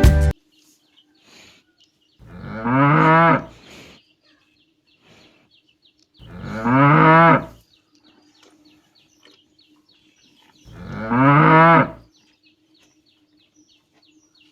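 A cow mooing three times, each moo about a second and a half long, with a few seconds between them.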